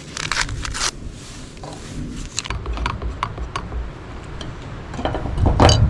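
A series of small clicks and knocks from camp cooking gear being handled over a low rumble, with a louder clatter near the end.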